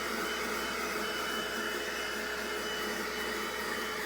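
Bissell Little Green portable carpet extractor running steadily, a constant motor whine over a rushing suction noise, while lightly extracting an upholstered truck seat.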